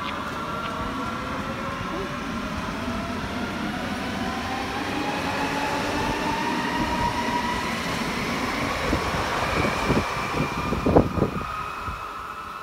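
Electric passenger train running past and away down the track, its motor whine climbing steadily in pitch as it gathers speed over a steady rail rumble. There are a few sharp knocks near the end before the sound fades as it recedes.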